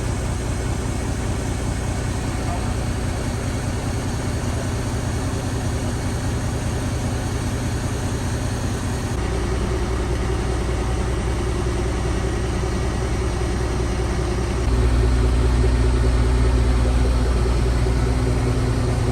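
Diesel engine of a crane running steadily, its revs and level stepping up about nine seconds in and again near the end.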